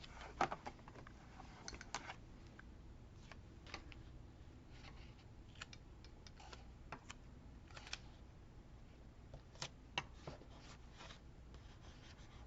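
Paper and sticker sheets being handled at a desk: scattered light taps, clicks and rustles, the sharpest about half a second in and a cluster around ten seconds in.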